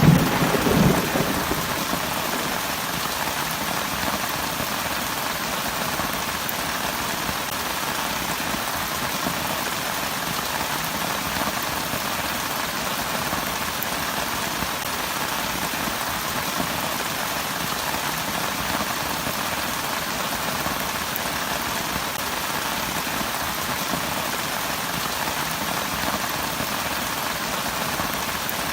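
Steady heavy rain falling. The tail of a thunderclap rumbles and dies away in the first second or two.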